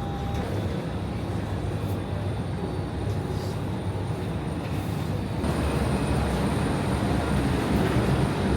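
Steady vehicle rumble and hiss with a faint high whine, stepping up in loudness about five seconds in.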